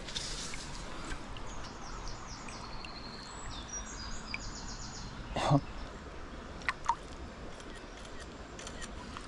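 A small songbird sings a quick run of high whistled notes over the steady rush of a forest stream. About five and a half seconds in there is a short loud knock or splash, and two sharp clicks follow about a second later.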